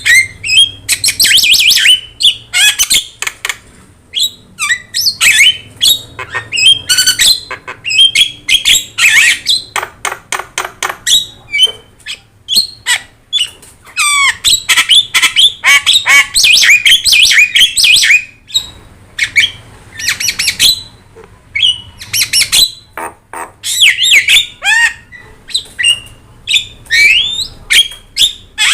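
Javan myna (jalak kebo) singing at full volume: a fast, almost unbroken run of harsh squawks, clicks and whistled gliding notes.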